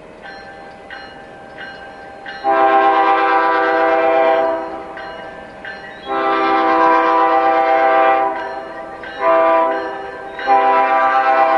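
Diesel freight locomotive's air horn sounding the grade-crossing signal: two long blasts, one short, then a long blast that is still going at the end. The horn is a chord of several tones. Fainter regular clicks and tones come before the first blast.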